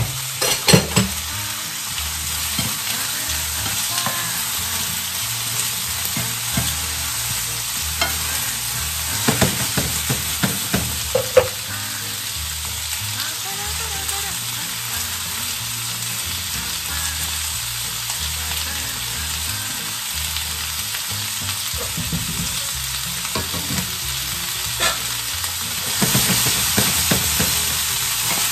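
Diced bell peppers sizzling steadily in hot olive oil in a frying pan. Spoons knock and clatter against the pans in clusters as they are stirred: about a second in, in the middle, and again near the end.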